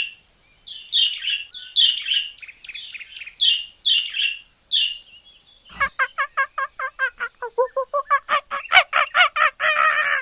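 A small bird's repeated high chirps, roughly two a second. About six seconds in, it switches abruptly to a fowl's rapid run of clucking calls, several a second.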